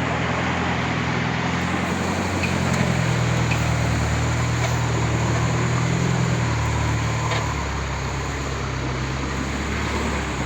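Truck engine running steadily under load as the truck crawls over a rough, broken road, with a change in the engine note about seven seconds in.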